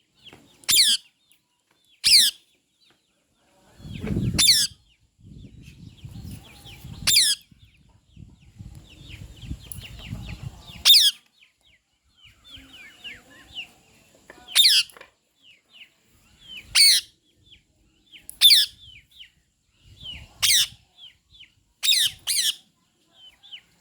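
Bird calls: short, sharp, high calls repeating every second or two, each sweeping down in pitch, with softer chirps between them. A low rumbling noise runs under them from about four to eleven seconds in.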